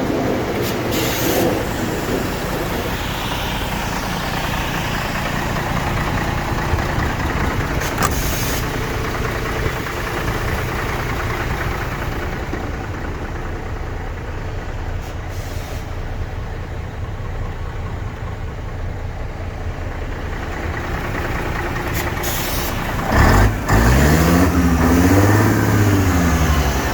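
Mercedes-Benz SK 2527 truck's diesel engine idling steadily, with a few short hisses of air now and then. Near the end it is revved up and back down, louder.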